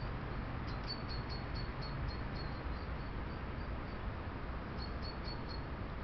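A bird calling in two runs of short, thin, high notes, about four or five a second. The first run comes under a second in and fades out; the second is brief, near the end.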